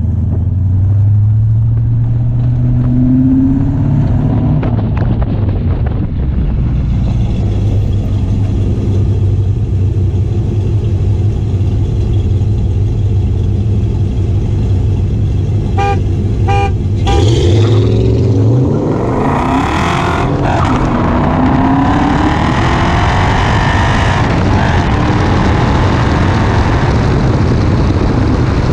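V8 car engines running and revving during a short drag race. A quick series of horn toots comes about 16 seconds in, then engine pitch climbs as the vehicles accelerate hard.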